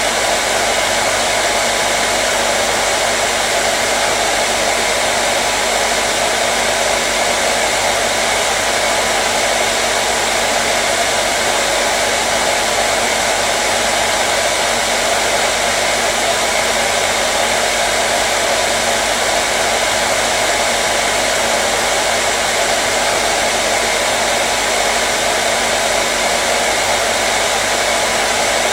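Hair dryer running steadily, its fan and airflow making a continuous rushing noise with a faint motor hum.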